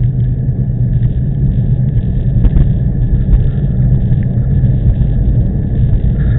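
Wind buffeting the microphone of a camera riding on a moving bicycle: a loud, fluttering low rumble with no let-up.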